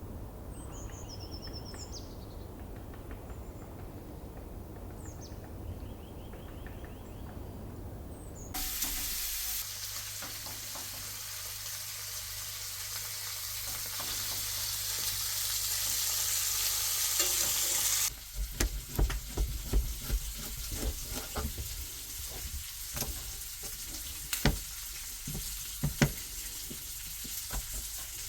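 Birds chirping for the first several seconds. Then, suddenly, food sizzles loudly in a frying pan, the hiss building. From about halfway on the sizzle is quieter, under repeated clinks and knocks of a utensil stirring and turning the food in the pan.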